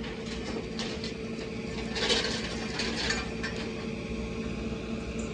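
A vehicle engine running steadily, an even low hum, with a few brief clattering, hissing noises about two to three seconds in.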